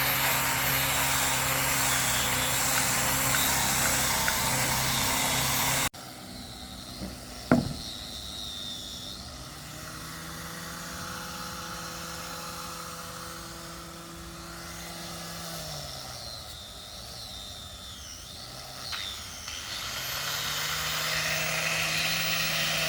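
A power tool's motor running steadily, with a sharp knock after the sound cuts off about six seconds in. The motor then runs again at a lower level, slowing down around two-thirds of the way through, and starts up again near the end.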